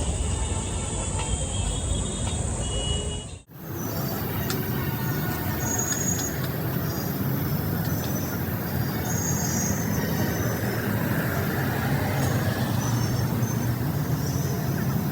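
Steady vehicle rumble, cut off abruptly about three and a half seconds in and replaced by another steady vehicle and traffic-like noise with faint high chirps.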